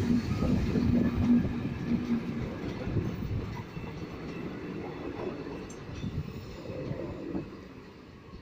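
Milk tank wagons and parcel vans of a passing train rumbling and clattering over the rails. The sound fades steadily as the last vans roll by.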